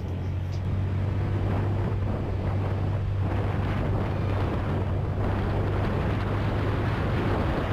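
Honda Click scooter running, a steady low engine hum under wind noise buffeting the microphone.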